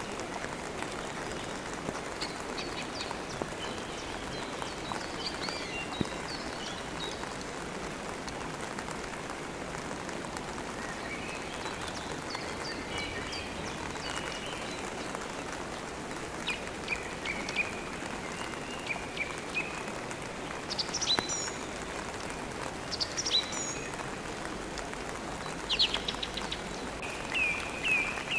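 Steady rain, with birds chirping and calling now and then over it; near the end one bird repeats a short note several times.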